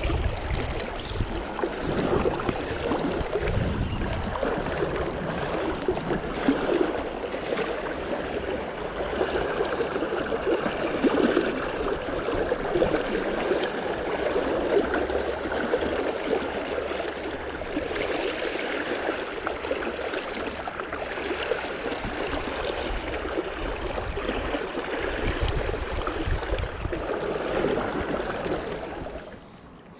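A river running steadily, the even rush of a trout stream's water, with a few low rumbles near the start and near the end.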